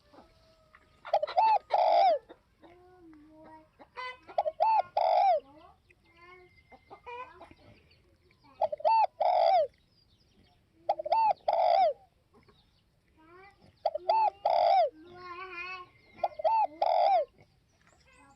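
Spotted dove cooing over and over: six short phrases of two or three notes each, one every two to three seconds. Other birds chirp and trill faintly between the phrases.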